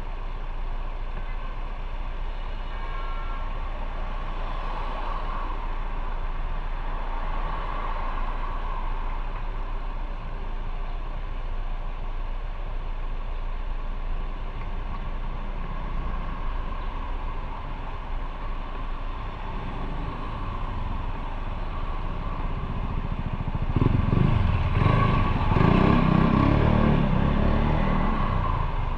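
Motorcycle on the move: steady engine, tyre and wind noise, swelling into a louder low rumble for a few seconds near the end.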